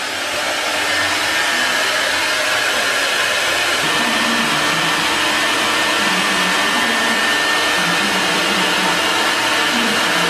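CNC dovetail and drawer-joint machine running with a steady loud whir and a constant high tone. About four seconds in, a lower wavering hum joins.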